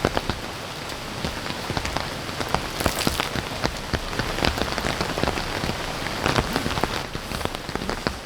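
Heavy rain falling steadily, with many sharp individual drops striking close by.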